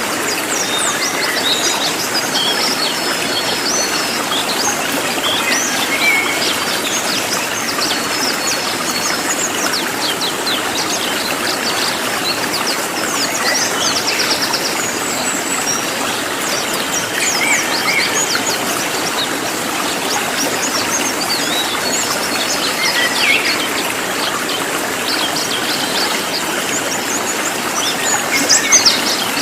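Cililin songbird singing in dense runs of short, quick, high chirps and sweeps, over a steady rush of running water.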